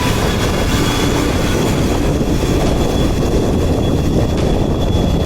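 Truck driving along: steady engine and road rumble, with a faint steady high-pitched tone over it.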